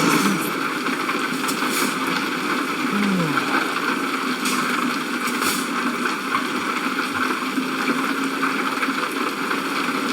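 Yacht underway: a steady rush of water and wind, with a faint low hum throughout and a short falling tone about three seconds in.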